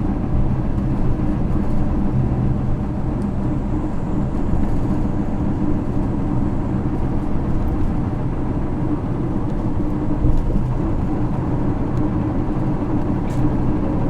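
Isuzu Erga city bus's 6HK1 inline-six diesel running steadily, heard from inside the cabin over road noise.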